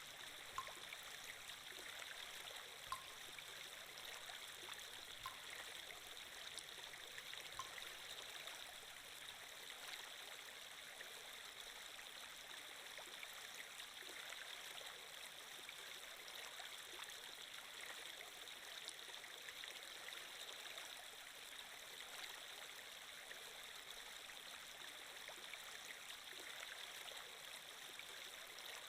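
Faint, steady running water of a flowing-stream sound effect. A few short plinks come about every two seconds during the first third.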